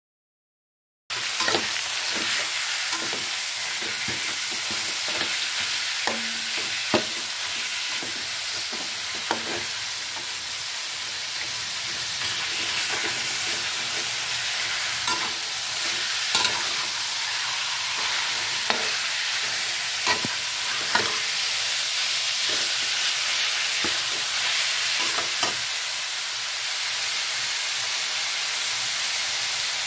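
Minced meat frying with garlic in oil in a metal wok: a steady sizzle, with a metal spatula scraping and clicking against the pan as the meat is stirred. It starts about a second in.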